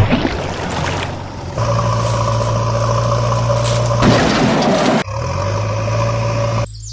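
Heavy vehicle engine running steadily, in several edited sections that cut abruptly from one to the next, with a sharp hit at the start and a louder, harsher rush about four seconds in.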